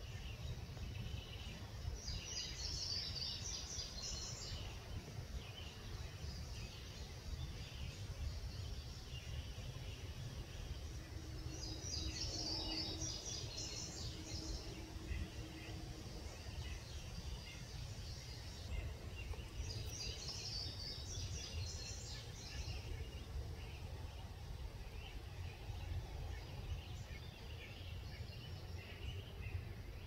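A songbird sings three high-pitched phrases of rapid repeated notes, each two to three seconds long and spaced about eight seconds apart. Fainter bird chatter and a steady low rumble run beneath.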